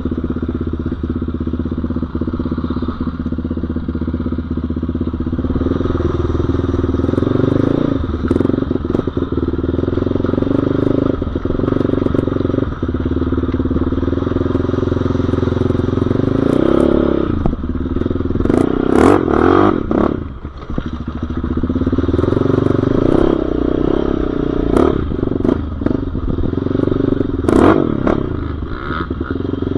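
Single-cylinder off-road engine running under riding load, its pitch rising and falling as the throttle is worked, with a few sharp knocks and clatter over rough ground, loudest about two-thirds of the way through and again near the end.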